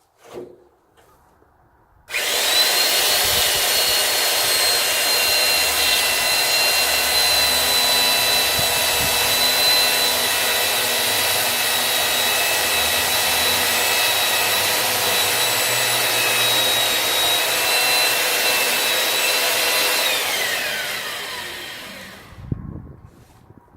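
Electric chainsaw switching on and running steadily through wood for about eighteen seconds with a high whine. It then winds down with falling pitch, and a thump follows near the end.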